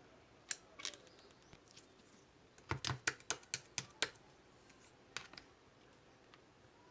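Marbled slime being worked by hand, giving sharp popping clicks as small air pockets burst: two early on, a quick run of about six in the middle, then one more.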